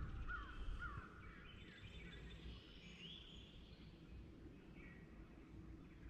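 Faint bird calls: three short chirps in the first second, then a few scattered higher notes, over a low outdoor rumble.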